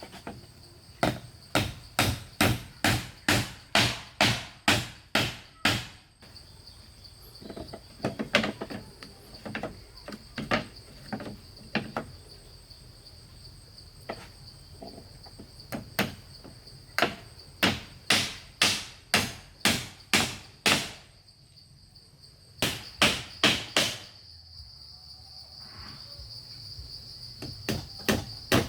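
Repeated blows of a hand tool on wood, about two a second, coming in runs with short pauses between. Insects shrill steadily throughout.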